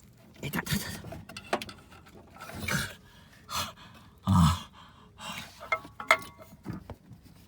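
Someone working a stuck timing belt cover off a Suzuki F6A twin-cam turbo engine: short knocks, clicks and scrapes of the cover and tools, mixed with straining breaths and grunts. The loudest is a heavy low sound a little past the middle.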